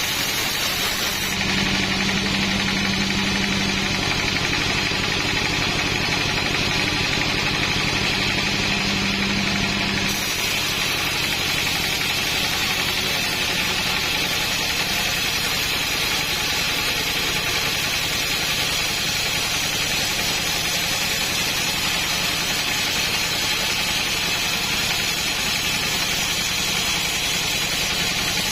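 Petrol engine of a saw running steadily while milling wood, with a lower steady hum added for a stretch near the start that stops abruptly about ten seconds in.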